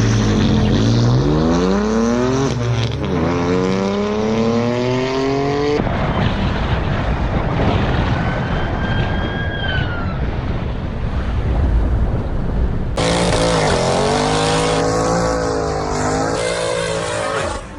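Car engine accelerating hard, its pitch climbing, dropping at a gear change and climbing again. This gives way to rushing wind and road noise with a brief high squeal, and then to another engine revving up and down.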